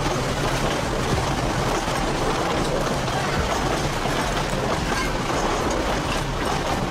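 Passenger cars of the Durango & Silverton narrow-gauge train rolling past on the rails, a steady running noise of wheels on track.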